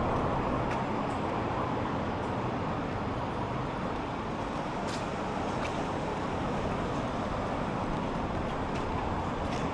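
Steady road-traffic noise, a continuous even rush with a few faint ticks.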